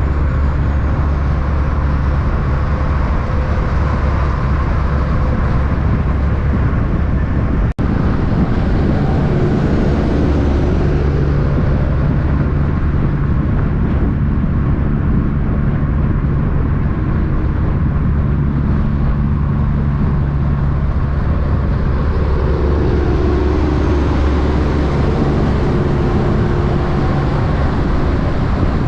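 Heavy diesel trucks running by on the road: a steady low rumble with engine tones that shift in pitch, rising again near the end. The sound drops out for an instant about eight seconds in.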